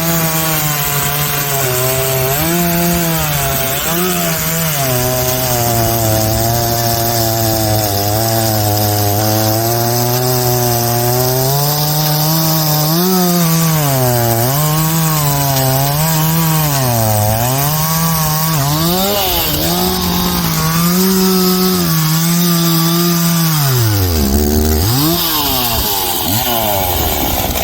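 Two-stroke chainsaw cutting through a fallen tree trunk, its engine speed rising and falling as the chain bites and eases in the wood. The engine dips hard once near the end, picks back up, then cuts off at the very end.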